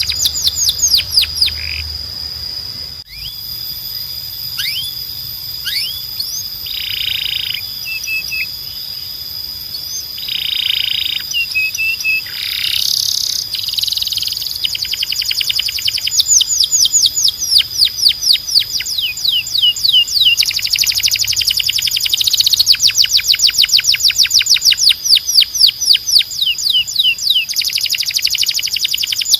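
Timbrado canary singing: long runs of rapid trills made of quickly repeated falling notes, broken by slower note series and short buzzy phrases, over a steady high note.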